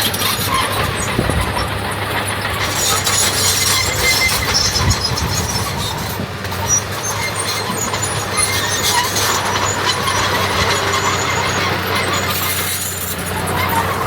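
Heavy diesel earthmoving machinery running steadily, with a constant low engine hum under a dense layer of metallic rattling and squealing.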